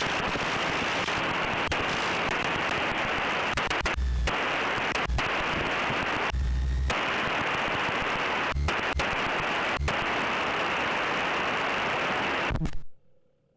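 Cessna 172 cockpit noise as picked up through the headset intercom: a steady static-like hiss of engine and propeller at taxi power, broken by a few brief dropouts. It cuts off suddenly near the end.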